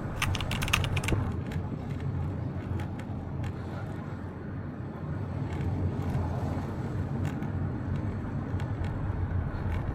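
Town street ambience: a steady low rumble of passing traffic, with a cluster of light clicks and taps in the first second and a few more later on.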